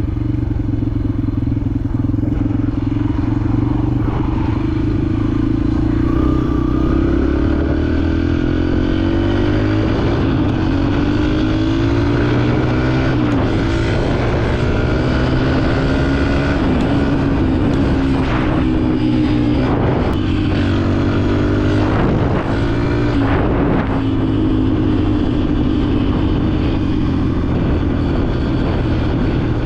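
Dirt bike engine running under way, its revs rising and falling again and again through the middle as the throttle is worked, with a few short knocks along the way.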